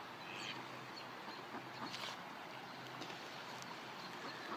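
Faint steady rush of flowing creek water, with a few faint short bird calls near the start.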